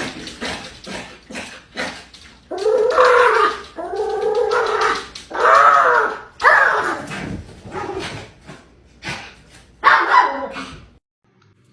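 A dog vocalizing in a run of drawn-out calls that waver up and down in pitch, with short sharp sounds between them, stopping abruptly near the end.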